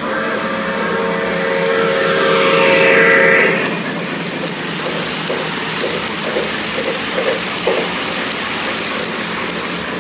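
O gauge model locomotive's sound system blowing its whistle for about three and a half seconds, loudest just before it stops, over the steady running noise of the model train on its track. A few short irregular clunks follow in the second half.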